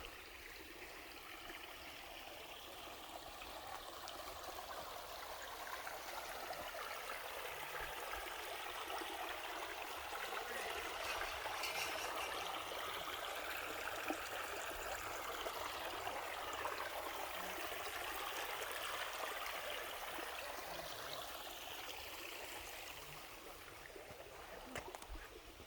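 Running water of a creek, a steady rushing hiss that grows louder through the middle and fades again near the end.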